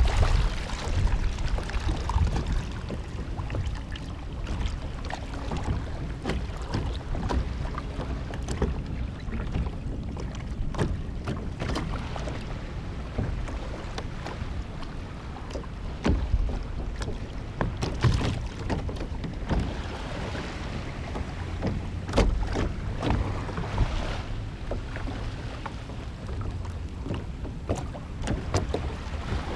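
Kayak on the water: water sloshing with scattered knocks against the hull over a low rumble of wind on the microphone.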